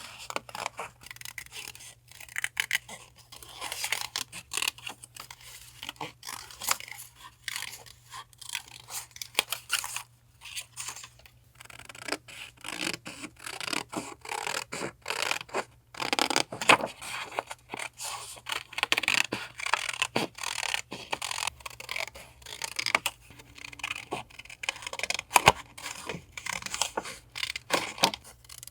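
Paper being handled for collage journaling: irregular rustling, scraping and rubbing of paper with scattered light taps and clicks.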